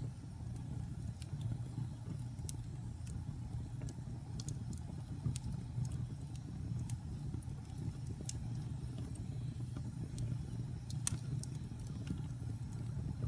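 Wood fire burning in a fireplace: a steady low rumble of flames with scattered sharp crackles and pops, one louder pop about eleven seconds in.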